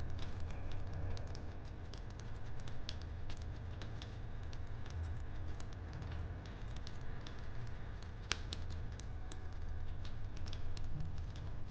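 Wood fire crackling: irregular small pops and snaps over a steady low rumble, with one louder pop about eight seconds in.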